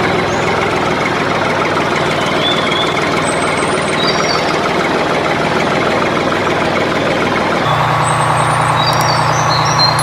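Tractor engine running steadily, taking on a stronger, deeper note about three quarters of the way in.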